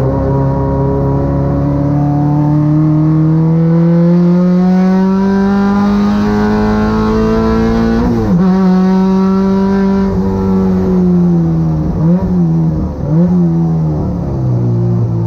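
A Honda Civic race car's K24 four-cylinder engine under full throttle. The revs climb steadily for about eight seconds, drop sharply at an upshift, then dip twice, settle lower and start climbing again near the end.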